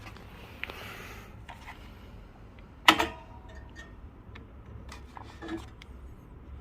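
Espresso gear being handled: scattered light clicks and one sharp, ringing clink about three seconds in, over a low steady hum.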